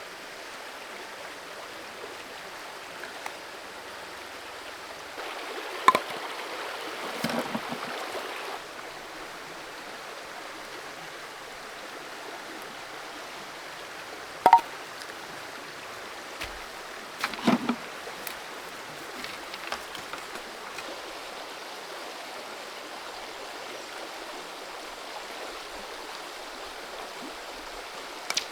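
Forest creek water flowing steadily. A few short sharp sounds cut through it, the loudest about six seconds in and others around seven to eight, fourteen and seventeen seconds in.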